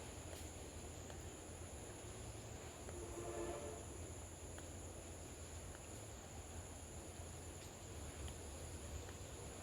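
Insects shrilling steadily in a high, continuous drone. About three seconds in there is a brief low pitched call with overtones.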